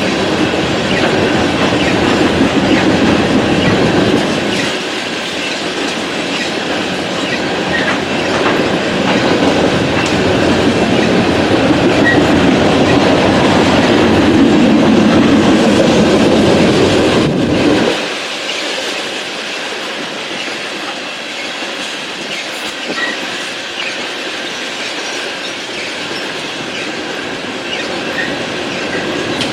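BNSF coal train's railcars rolling past with a steady rumble and wheel clatter. The sound drops suddenly to a quieter level about 18 seconds in.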